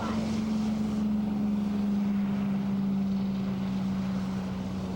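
An engine running steadily with a sustained hum whose pitch eases down slightly about two seconds in.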